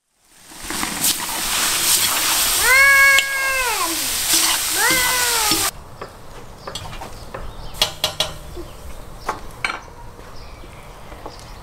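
Diced smoked sausage sizzling as it fries in a cauldron, with a cat meowing twice over it: one long meow that drops at its end, then a short rising one. The sizzling cuts off suddenly about five and a half seconds in, leaving quieter clicks and scrapes of a spoon stirring in the pan.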